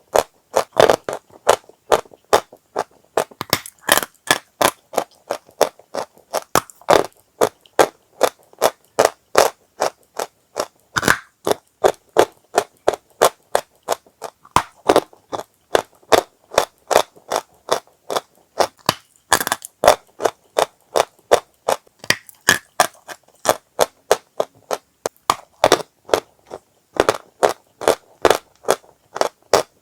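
Dry chalk being bitten and crunched: a steady run of sharp, crisp crunches, about two or three a second, with brief silences between them.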